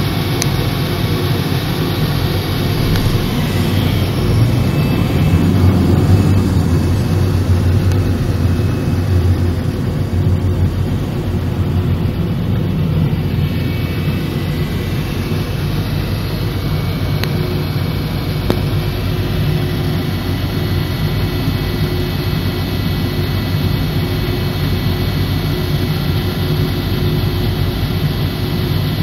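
Steady low engine drone heard from inside a moving car on an airport apron, swelling a little around five to ten seconds in, with faint steady high tones over it.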